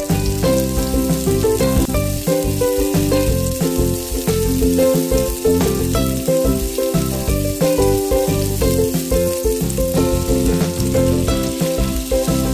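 Garlic, spring onion and sliced chillies sizzling in hot oil in a frying pan, a steady hiss, with background music over it.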